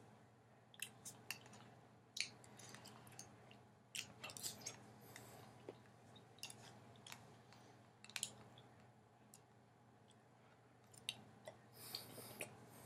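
Faint chewing of canned peaches, wet and close, broken by scattered sharp clicks.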